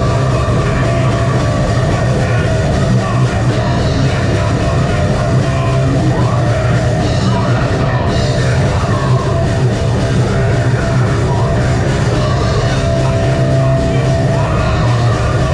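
A metal band playing live, loud and without a break: distorted guitars, bass and drums.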